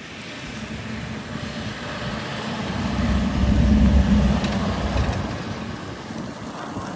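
A road vehicle passing by, its rumble building to a peak about four seconds in and then fading.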